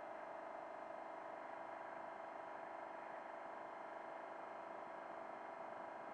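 Steady drone of an off-road race truck running at speed on the highway, heard from inside the cab, with no change in pitch or level.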